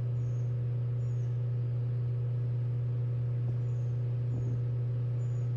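Steady low hum of an idling vehicle engine, unchanging throughout. Faint, short, high chirps repeat about once a second.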